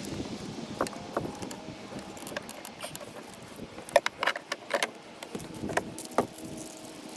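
Scattered small clicks and clinks of handling, with several sharp ones close together from about four to six seconds in, over a low steady background hum.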